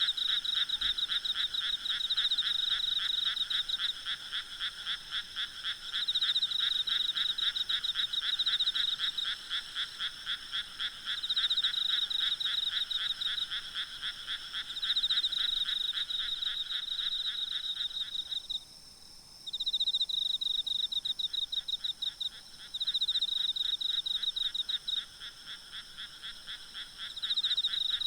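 A chorus of frogs calling in rapid pulsed trains that swell and ease in bouts, falling silent for about a second around two-thirds of the way through. Under it runs a faint, steady trill of night insects.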